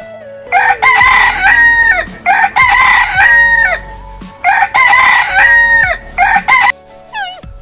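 Rooster crowing three times in a row, each crow a few short notes ending in a long held note that drops off, followed by a short extra call and some quick high chirps near the end.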